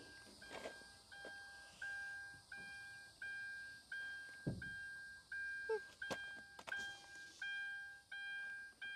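A car's electronic warning chime beeping steadily, about two short beeps a second. There is a low thump about four and a half seconds in, and a few light clicks.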